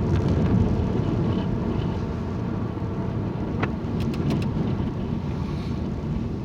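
Steady car road noise from inside a slowly moving car, a low engine and tyre rumble, with a few short sharp clicks about halfway through.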